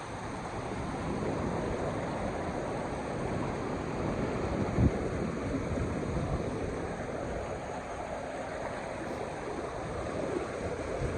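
Steady rush of flowing monsoon water, with a single brief thump about five seconds in.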